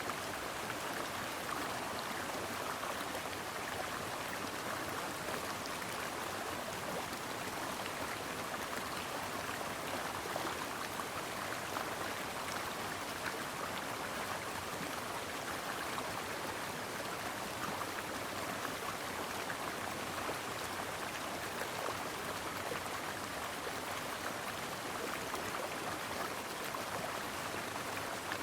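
Brook water flowing steadily, an even babbling rush with small splashes and no pauses.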